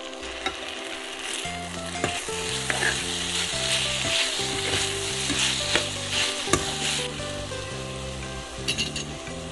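Sauce-coated fried chicken sizzling in a steel wok as it is stirred and tossed with Schezwan chutney and ketchup. The sizzle is strongest through the middle, with a few sharp knocks against the pan.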